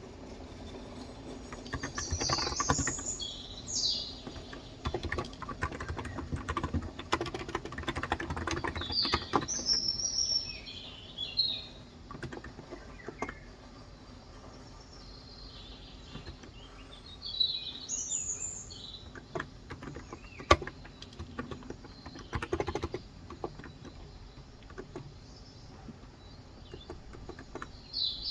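Typing on a Cox Endeavour electro-capacitive tenkeyless keyboard with light 35 g switches, in two runs of keystrokes with a pause between. Birds chirp outside four times, and a steady rain hiss lies underneath.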